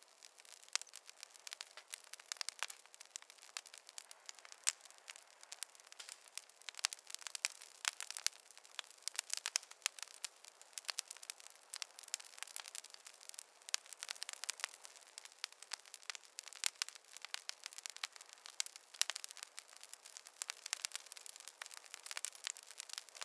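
Wood fire crackling: a dense, irregular run of sharp pops and snaps over a faint hiss, with no low rumble.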